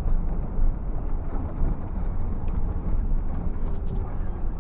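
Scania bus on the move: a steady low engine and road rumble, with a few faint light rattles near the end.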